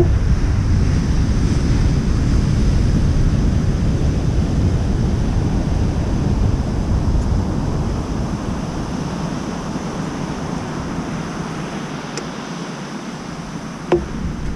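Steady rushing noise of wind buffeting the microphone, its low rumble dropping away about halfway through, with a sharp click near the end.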